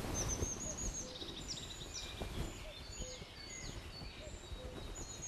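Small birds chirping: a run of short, high calls repeated throughout, over a low outdoor rumble.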